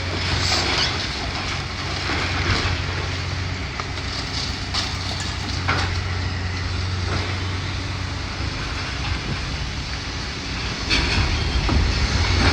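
Heavy demolition machinery running steadily, with scattered crunches and clatters of building debris being broken and dropped.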